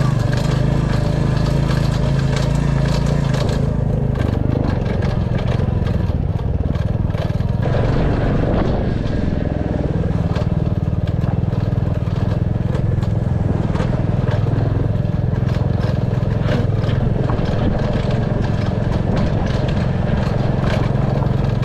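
Royal Enfield Classic 350's single-cylinder engine running steadily under way, with frequent clicks and rattles from riding over a rough road.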